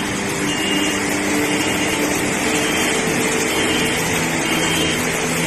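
Steady rushing noise of a stream in spate carrying mud and debris, with a few faint held tones underneath.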